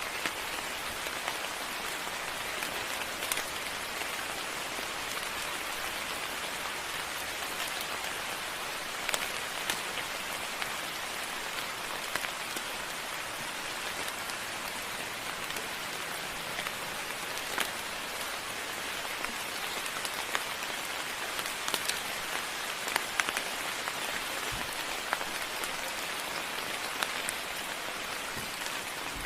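Steady moderate rain falling, an even hiss with scattered sharper drip ticks throughout.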